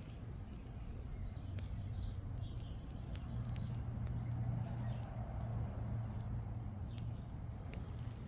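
Outdoor backyard ambience: a steady low hum with faint, short bird chirps in the first few seconds and a few scattered light clicks.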